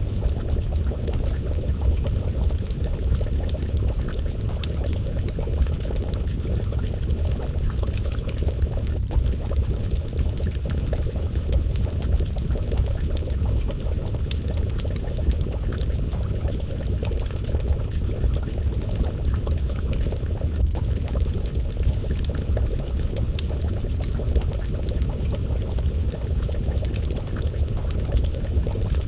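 Wood fire crackling, with many small irregular pops over a steady low rumble, and a pot of stew simmering and bubbling over the flames.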